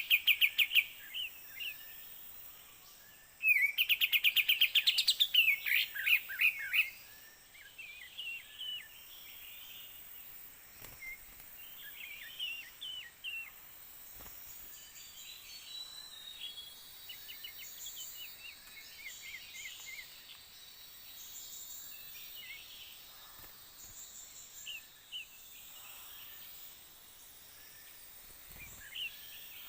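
Forest birds calling: loud, rapid chattering calls in two bursts within the first seven seconds, then fainter, scattered chirps and whistles.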